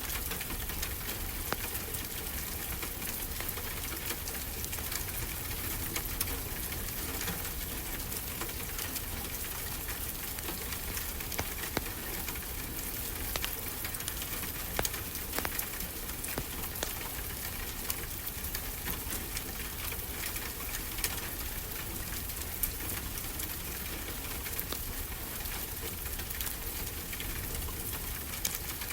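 Wood fire crackling with frequent small snaps and pops over a steady hiss and low rumble of ocean waves.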